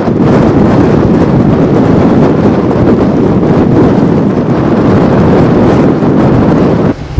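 Blizzard winds of 50–60 mph blowing hard and buffeting the microphone in a loud, steady rush that drops off suddenly near the end.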